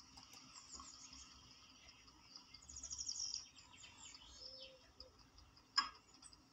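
Faint birdsong: small birds chirping and twittering, busiest around the middle, with a single sharp click near the end.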